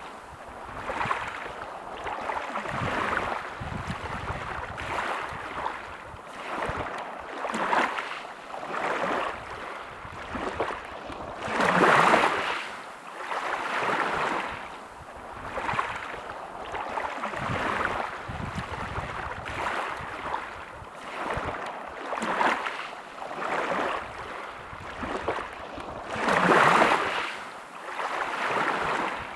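Sea waves washing onto a beach, the surf swelling and falling away every second or two, with bigger breakers about twelve seconds in and again near the end.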